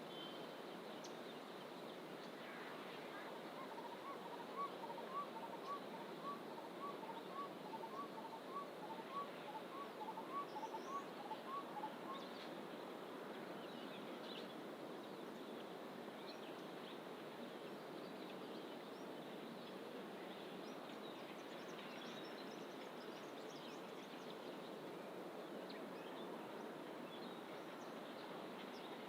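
A bird in the bush repeats a two-note call, a higher note then a lower one, about twice a second for some eight seconds. Scattered faint high chirps from other birds sit over a steady rushing background of distant ocean surf.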